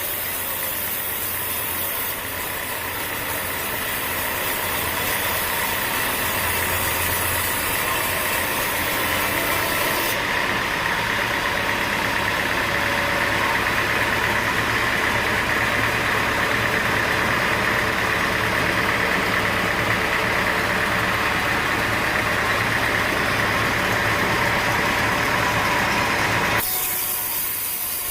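A machine engine running steadily, with abrupt changes in its sound about two, ten and twenty-seven seconds in.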